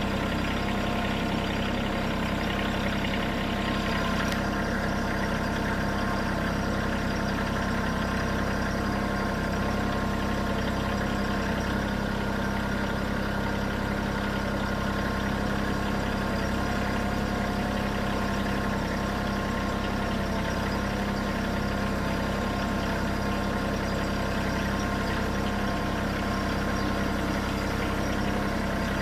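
Bad Boy 3026H compact tractor's diesel engine running steadily at an even, unchanging pace while it hauls logs slowly. A faint higher hiss drops away about four seconds in.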